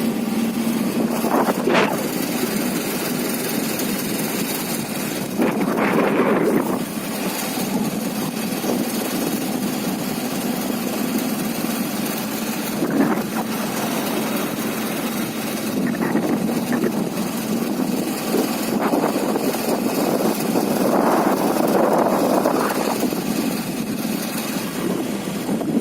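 Motorcycle engine running while riding, under a steady rushing noise. It swells louder briefly about six seconds in and again for a couple of seconds near the end.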